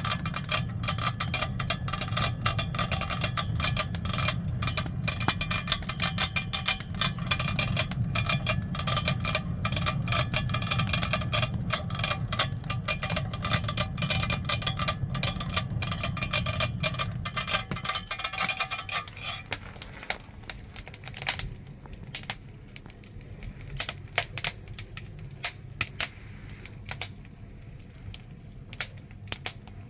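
Hand-cranked rotary blower (pungno) whirring with dense, rapid clattering as it fans a firewood fire. About two-thirds of the way through the cranking stops, leaving scattered crackles and pops from the burning wood.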